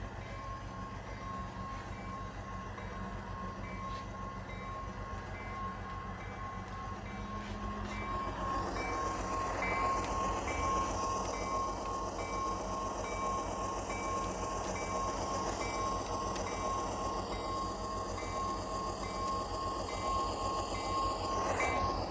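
Tsunami 2 sound decoder in an HO Athearn Genesis GE CW44AH model locomotive playing GE 7FDL-16 diesel engine sound through its small onboard speaker as the model runs. About eight seconds in, the sound grows louder as it throttles up, with a rising whine, then drops off just before the end.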